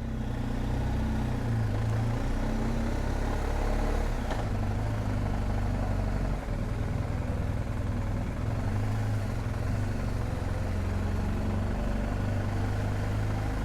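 BMW R1250 GSA's boxer-twin engine running at low revs, a steady low hum with slight changes in pitch.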